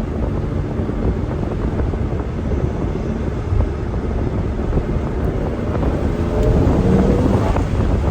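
Turbocharged 987.1 Porsche Cayman S on the move: steady engine and road rumble with wind buffeting the microphone, getting a little louder about six seconds in as a faint rising tone comes in.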